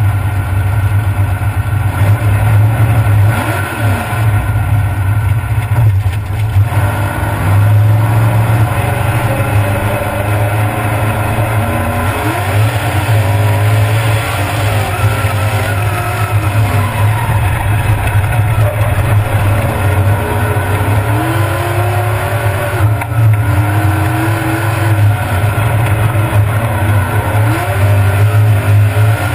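Mud-bog car's engine running loud, heard from inside the cab, revving up and down several times as the car drives through a mud pit.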